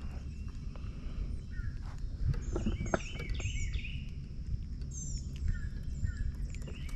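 Wild birds chirping repeatedly with short, slurred high notes over a steady low rumble, with a few small clicks.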